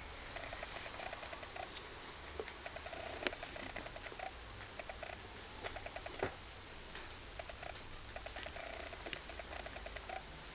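A rabbit chewing hay: rapid crunching in short runs of quick, even bites, broken by a few sharp crackles of dry stalks.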